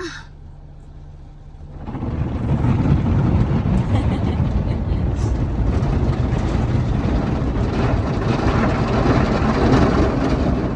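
Car wash starting up, a loud steady rush of spraying water and machinery that comes in about two seconds in over a faint hum.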